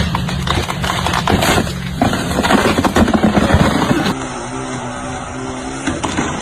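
An engine running, with a dense run of loud crackles and snaps about two to four seconds in; about four seconds in the sound cuts abruptly to a quieter steady hum.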